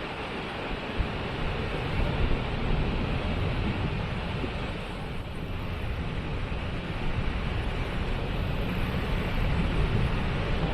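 Waterfall: a steady rush of falling water with a heavy low rumble.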